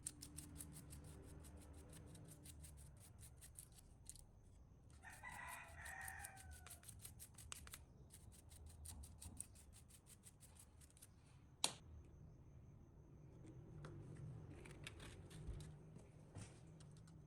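Near silence with faint, rapid ticking, broken by a single pitched animal call of about two seconds a third of the way in and one sharp click about two-thirds of the way in.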